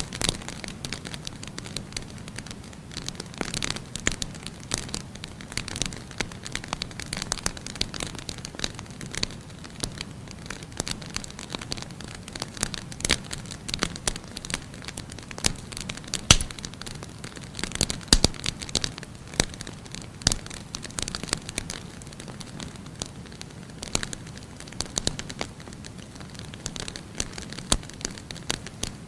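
Firewood burning in a fireplace: a steady low rumble of flames with irregular crackling and sharp snapping pops, one loud pop about sixteen seconds in.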